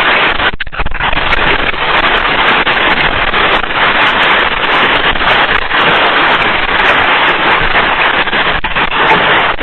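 Heavy rain pouring down: a loud, steady, dense hiss.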